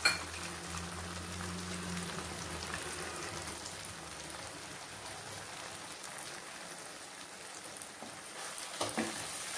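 Onion masala sizzling and crackling steadily in oil in a non-stick kadai, fried to the stage where the oil separates, with a ground chilli-cashew paste just added on top. A wooden spatula knocks and scrapes in the pan near the end.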